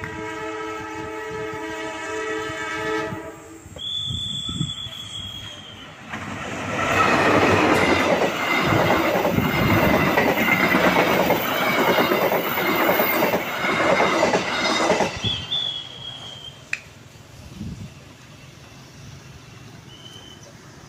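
A train sounds a steady horn blast for about three seconds. A few seconds later the train passes, loud for about eight seconds, with rhythmic clickety-clack of wheels over the rail joints and a steady high wheel squeal. It then fades away.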